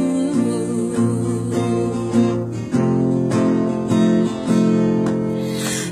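Acoustic guitar strumming chords in an instrumental gap between the sung lines of a slow gospel song.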